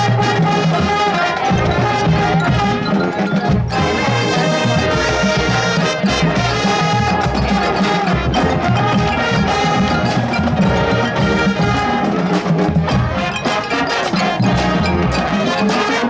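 High school marching band playing, full ensemble with a steady percussion beat and mallet percussion.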